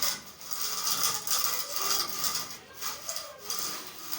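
A hand tool scraping or rasping against building material in a run of uneven strokes, as in construction repair work.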